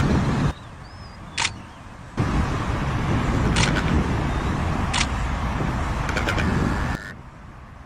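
Loud, steady rumbling noise that starts and stops abruptly twice, with three sharp clicks in it.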